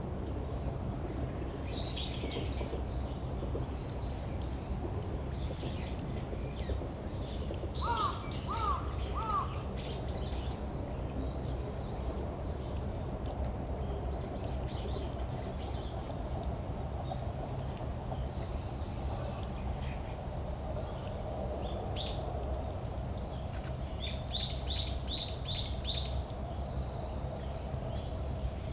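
Wild birds calling over a steady high insect trill. There are a few short high calls, three lower notes about eight seconds in, and a quick run of about five high notes near the end.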